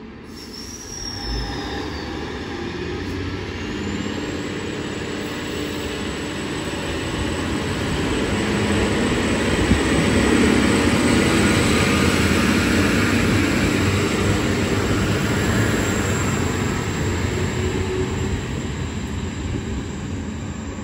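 Diesel passenger train passing close by. Its engine and wheel-on-rail noise builds to a peak about halfway through, then eases a little. A brief high squeal comes near the start.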